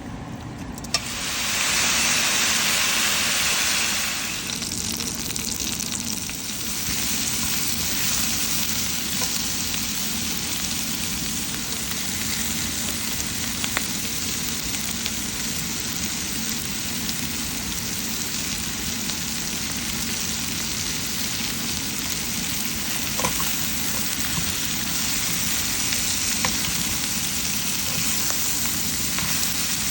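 Seasoned chicken pieces going into hot cooking oil. The sizzle jumps up about a second in and is loudest for the next few seconds, then settles into a steady frying sizzle with a few small pops.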